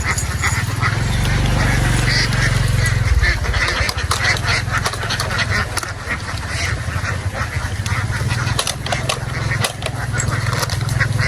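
A large flock of domestic ducks quacking continuously, many calls overlapping, with a steady low rumble underneath.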